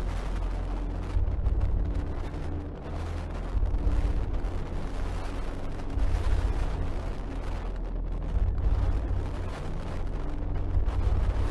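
Storm at sea heard from aboard a cruise ship: a deep rumble of wind and heavy waves against the ship, surging every couple of seconds.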